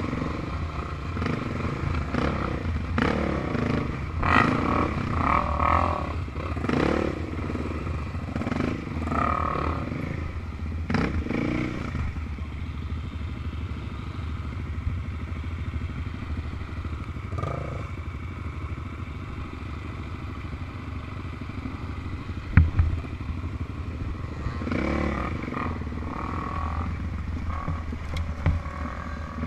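Off-road vehicle engines revving up and down, the pitch rising and falling again and again. They are quieter through the middle, and there is one sharp knock about 22 seconds in.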